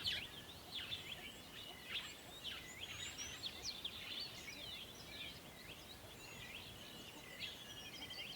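Several small birds chirping and calling over one another, in quick high-pitched chirps and short whistles, with a faint steady hiss of outdoor background.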